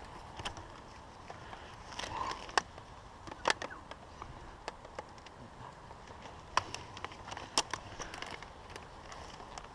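Footsteps on dry, twiggy ground: scattered light cracks and crunches with a faint steady background.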